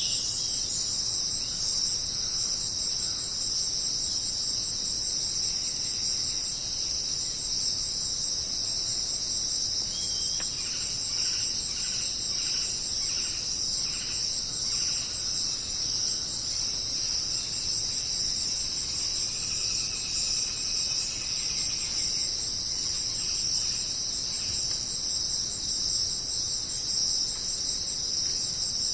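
Steady chorus of jungle insects, a dense high trilling that holds unbroken throughout. Fainter bird calls come through in the middle, a series of short repeated notes and then a longer held note.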